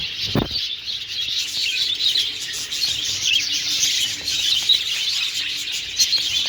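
A dense chorus of many small birds chirping and tweeting at once, without a break. There is a short low thump just after the start.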